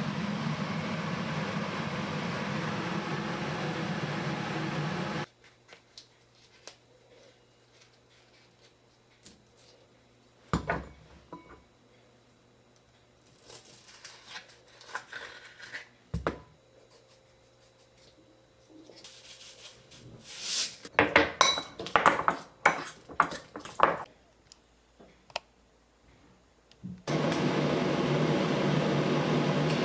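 Dishes and cutlery clinking and clattering in a kitchen, with scattered knocks and a busier run of clatter past the middle. A steady noise runs for about the first five seconds and returns near the end.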